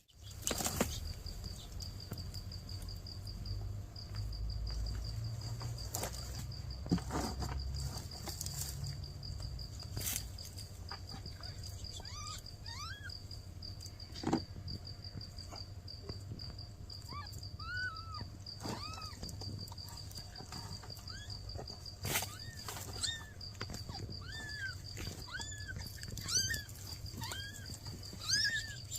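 Newborn kittens mewing: many short, thin, high-pitched cries, coming thick and fast from about halfway through.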